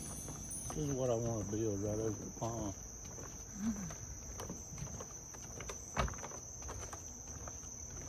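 Steady high-pitched insect chorus of crickets or katydids, one unbroken tone. A man's low voice sounds briefly about a second in, and a single sharp knock comes about six seconds in.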